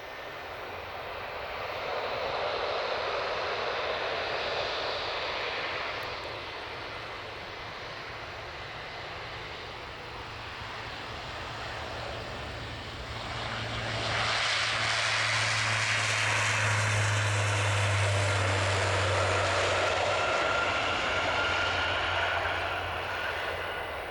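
Jet airliner engines running, swelling louder twice: briefly about two seconds in, then for several seconds from about fourteen seconds in, with a steady low hum under the rush.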